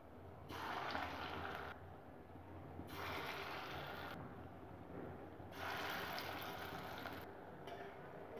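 Batter-coated pieces of fish roe sizzling in hot oil in a wok. The sizzle swells three times, as fresh pieces go into the oil one by one.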